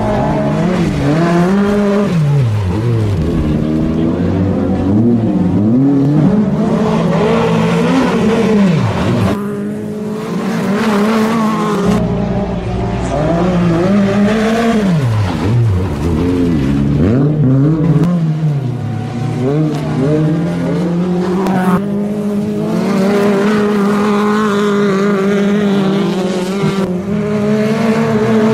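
Autocross race car engine revving hard and dropping again over and over, its pitch climbing and falling every second or two as the car accelerates and brakes around the circuit. A steady engine hum runs underneath.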